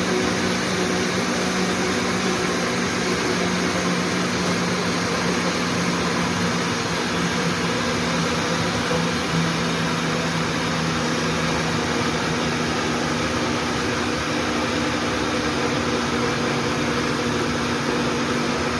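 Electric kitchen blender running steadily, churning a thick soap batter of oil, caustic soda and blended rice, with an even motor hum.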